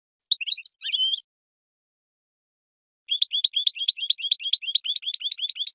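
European goldfinch singing: a short twittering phrase at the start, then after a pause of about two seconds a fast run of repeated high notes, about seven a second.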